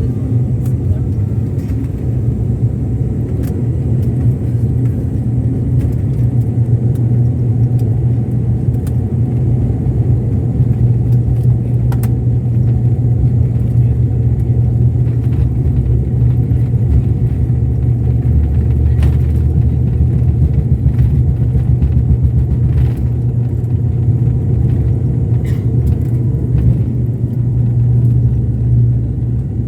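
Airliner cabin noise during takeoff: a steady, loud, low rumble of the engines and airframe, with scattered light rattles and clicks.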